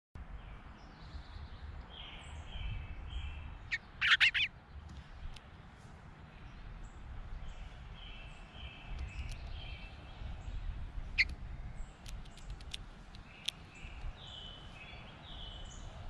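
Wild birds singing in the surrounding woods, with one loud close call about four seconds in and a few sharp clicks later, over a low rumble.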